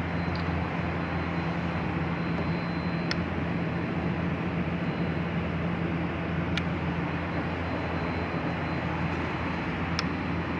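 Steady machine hum and noise with a thin high whine. A short faint tick comes about every three and a half seconds.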